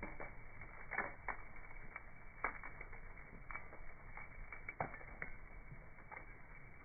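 Wood bonfire crackling: irregular sharp pops and snaps over a steady low hiss, the loudest pops about a second in, about two and a half seconds in and just before five seconds. The sound is dull, with no highs, as in slowed-down slow-motion playback.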